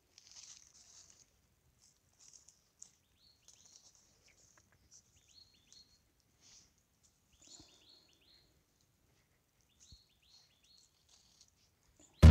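Faint chirping of small birds, short falling notes in groups of three or four, with soft rustling of dry leaves and twigs being handled.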